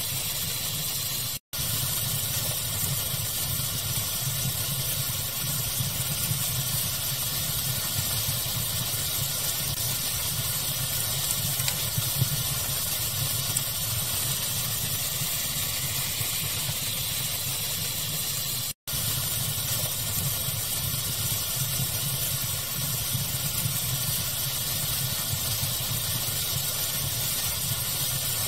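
Steady pink-noise hiss blended with fire crackling, with a few faint crackle pops. The sound cuts out completely for an instant twice, about a second and a half in and near 19 s.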